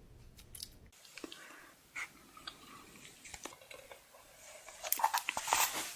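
Crunchy food being bitten and chewed close to the microphone: scattered crisp crunches that become loud and dense near the end. A low hum cuts off about a second in.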